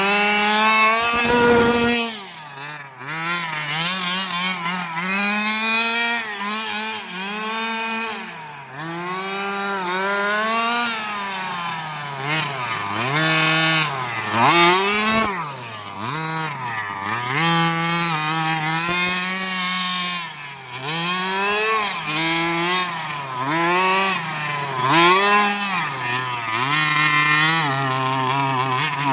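Redcat Rampage XR's 30cc two-stroke gas engine with a JetPro tuned pipe, revving up and down over and over as the throttle is worked, its pitch rising and falling every second or two.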